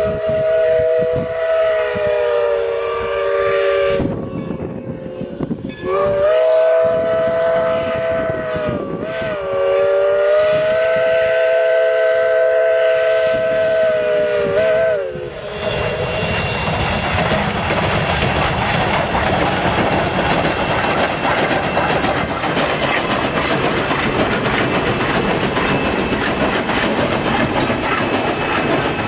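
Steam locomotive McCloud #18 sounding its chime whistle: two long blasts of several tones at once, the second lasting about nine seconds and wavering as it closes, then the train running past with a steady rumble and clatter of wheels on rail.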